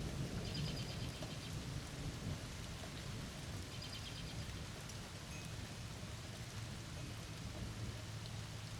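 Thunderstorm: steady rain falling, with a low thunder rumble that dies away over the first couple of seconds. Two short bursts of fast high chirping are heard, about half a second in and again around four seconds.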